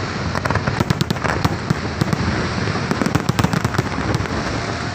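Fireworks display going off: a dense, continuous run of bangs and crackling, many reports every second.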